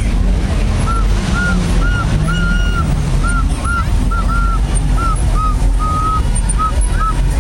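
A rapid string of short, high chirping tones, about two a second, over a steady low rumble of vehicle engines.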